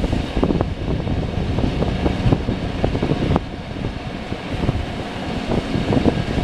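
Train running, a steady low rumble with irregular clicks and knocks. It cuts off suddenly at the end.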